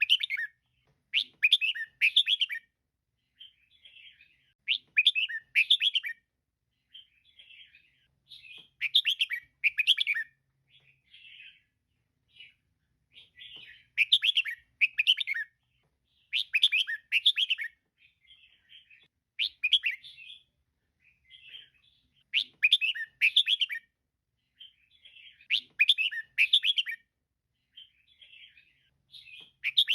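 Female red-whiskered bulbul calling: short phrases of quick, chattering chirps repeated every two to three seconds, louder bursts alternating with softer chatter.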